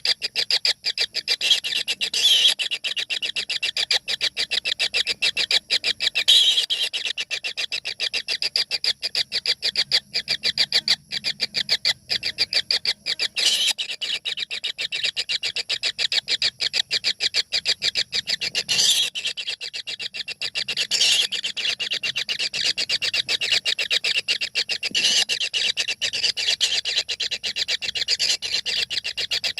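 Four tengke (kingfisher) nestlings begging together in their nest hole: a loud, unbroken, rapid chattering chorus, swelling in louder surges every few seconds.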